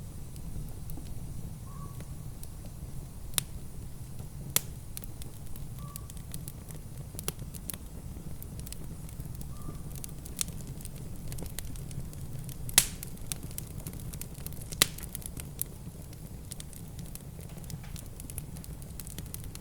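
Wood fire in a fireplace crackling, with irregular sharp pops over a steady low rumble; two louder pops stand out in the second half.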